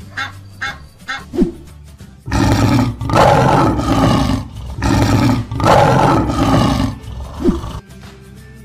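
A few short honks from a cartoon goose at the start, then a lion's roar sound effect, loud, in two long roars, over steady background music.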